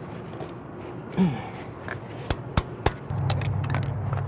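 Metal hand tools clicking and knocking against a motorcycle engine, a few sharp separate taps. A steady low hum sets in about three seconds in.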